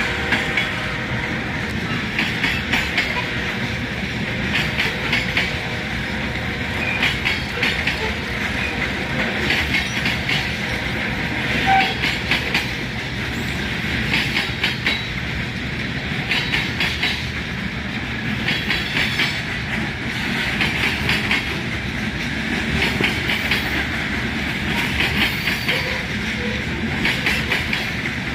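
Long Ferromex freight train rolling past: a steady rumble of wagons with groups of wheel clicks over the rail joints coming about every two seconds.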